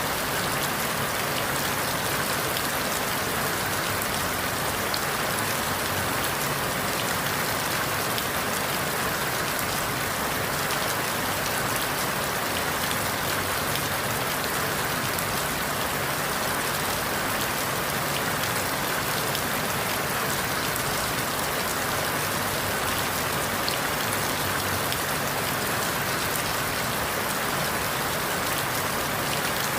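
Steady rain falling through forest leaves, a dense, even patter of many drops with no lulls.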